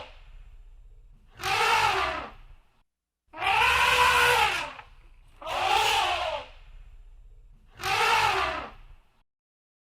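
Elephant trumpeting: four loud blasts, each a second or two long, rising and then falling in pitch, with a low hum between them.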